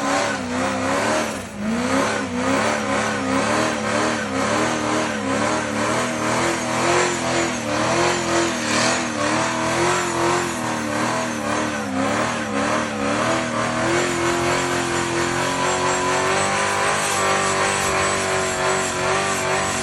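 A car engine revved hard and held high. Its pitch rises and falls about twice a second, then settles steadier and a little higher about two-thirds of the way through.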